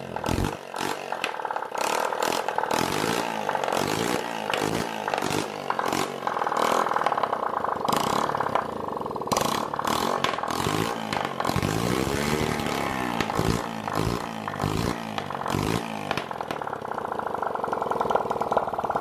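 Small dirt bike engine running with its exhaust removed, revved up and down again and again, with a sharp, uneven crackle through it.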